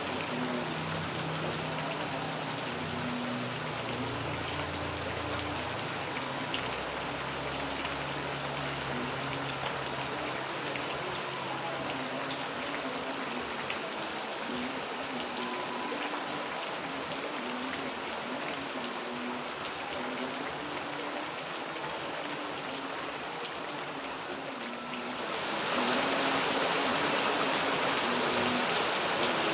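Steady rain falling, with running water, as a continuous even hiss. It becomes distinctly louder about 25 seconds in.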